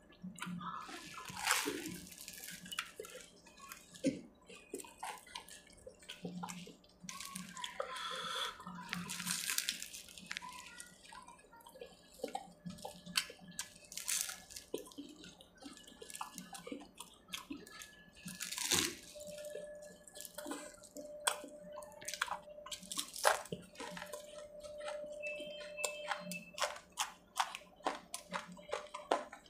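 A person chewing and crunching fried samosa and pakoras, with many irregular small clicks and crackles of mouth and food noise.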